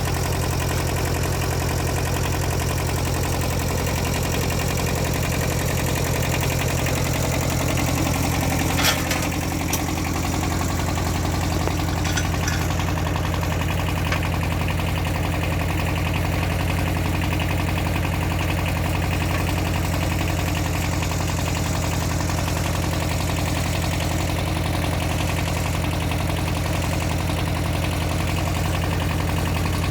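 An engine idling steadily. Its note shifts slightly about nine seconds in, with one sharp clank and a few lighter clicks a few seconds later.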